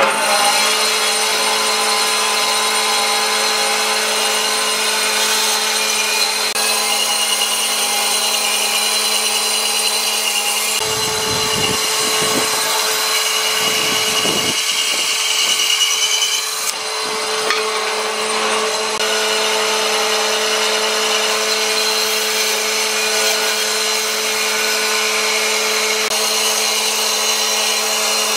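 A power tool working wood, running steadily with a constant hum, its load shifting briefly around the middle.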